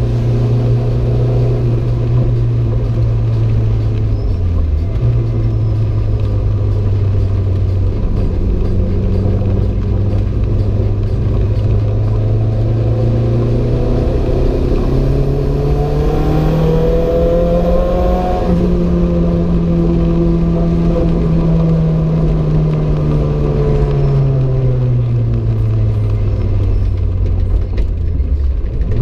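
Renault 5 GT Turbo's turbocharged four-cylinder engine pulling under load, with a brief dip in revs about four seconds in. The revs then climb steadily for a few seconds, hold, and slowly ease off, with a short drop near the end.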